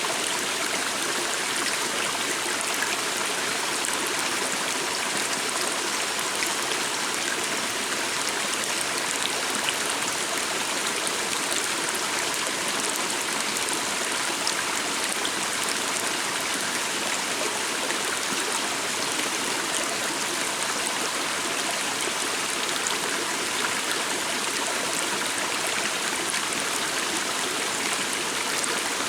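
A small stream of water running and trickling steadily.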